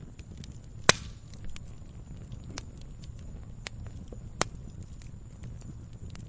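Wood fire crackling: a low steady rumble of flame with many small ticks, a sharp loud pop about a second in and another about four seconds in.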